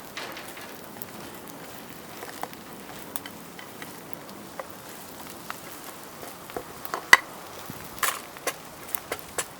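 Wood campfire crackling under a steady hiss, with scattered sharp clicks and pops; the loudest comes about seven seconds in and several follow near the end.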